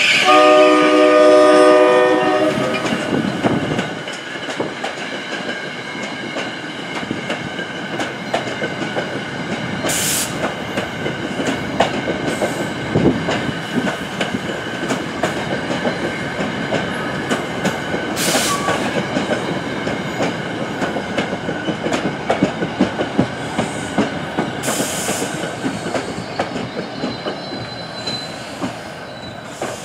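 NJ Transit ALP-46 electric locomotive's air horn sounding a chord of several notes for about two and a half seconds as it passes. It is followed by the steady rumble and rapid clicking of the passenger coaches' wheels over the rails, fading toward the end, with a few short high hisses.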